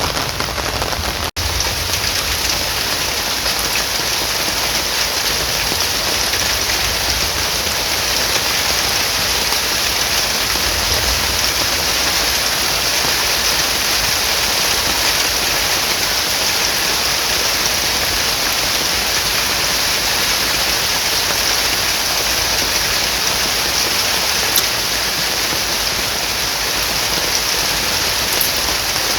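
Rain falling steadily and heavily, an even wash of noise, briefly cut off for an instant about a second in.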